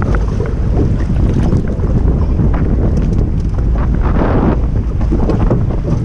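Strong wind buffeting an action camera's microphone: a loud, gusting low rumble.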